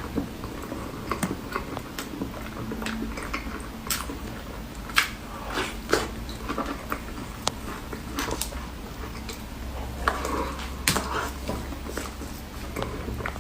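Close-miked eating sounds: a cake being bitten and chewed, with irregular sharp clicks and short crunches scattered through.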